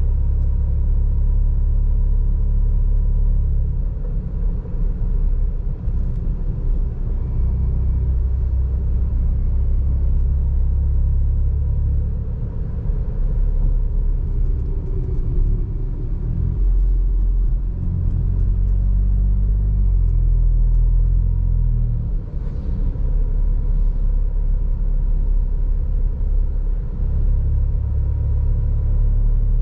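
Seat Ibiza FR's 1.0 TSI three-cylinder turbo engine running through a Friedrich sport exhaust while driving, with a steady low note. A little past halfway the engine note drops, then steps up and down in pitch for several seconds before settling back.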